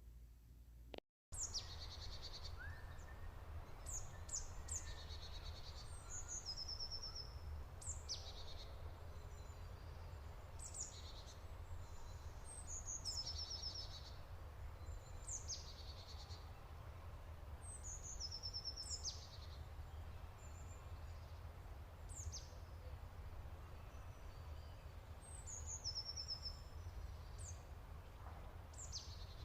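Birdsong: birds chirping and trilling, short high chirps that sweep downward and brief rapid trills repeating every second or two, starting after a brief silence about a second in, over a steady low rumble.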